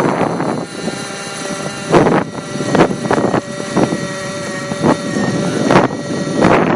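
Nitro engine and rotors of a T-Rex 600 Nitro RC helicopter running steadily in flight, a held whine with overtones, while strong wind gusts buffet the microphone about five times.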